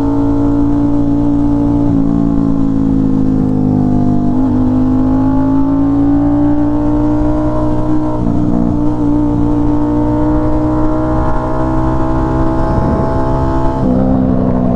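Aprilia RS660's parallel-twin engine running through an SC Project S1 full titanium exhaust, held at a steady cruise. Its note dips slightly a few times, climbs slowly, and drops back near the end, over wind noise on the microphone.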